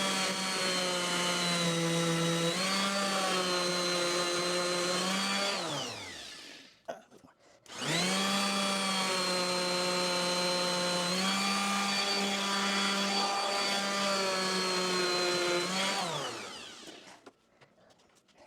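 Handheld electric sander run twice: each time a motor whine with many overtones that holds with small shifts in pitch as it bears on the work, then winds down. The first run stops about six seconds in; the second starts after a short pause and runs about eight seconds.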